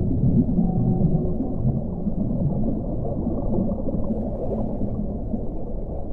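Underwater-style ocean ambience: a steady, muffled low rumble of water with gurgling, and a brief held tone in the first second or so.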